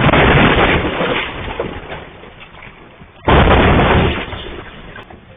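Two loud electrical blasts from power lines shorting out after a utility pole falls onto them, the second about three seconds after the first, each fading out over a second or two.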